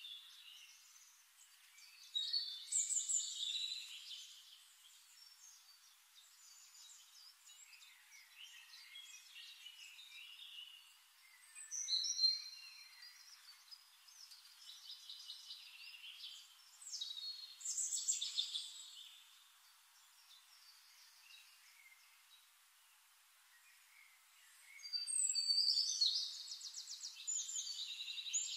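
Songbirds chirping and singing in intermittent bursts several seconds apart, with short sweeping calls and a rapid trill near the end.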